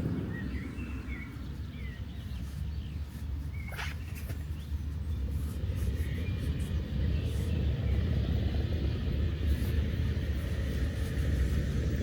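Outdoor ambience: a steady low rumble, slightly louder toward the end, with a few short bird chirps in the first couple of seconds and a single click about four seconds in.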